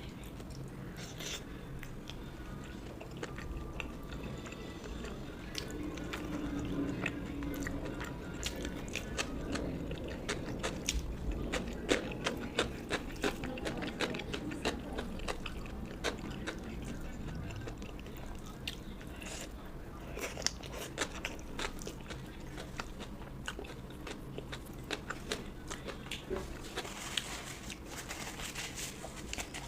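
Close-miked eating: chewing and biting through rice and fish curry, with crunches and many short wet mouth clicks.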